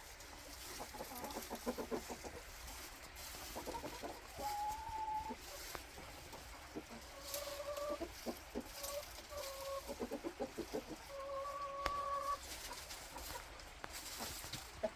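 Domestic chickens clucking in quick runs, with a few drawn-out calls of about a second each.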